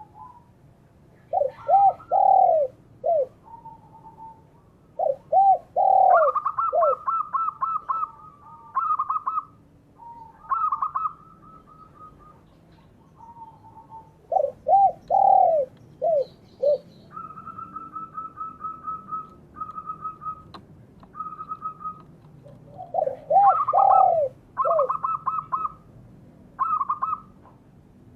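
Spotted doves and zebra doves cooing. Short groups of deep, arched coos alternate with higher, rapidly pulsed cooing phrases, repeating throughout.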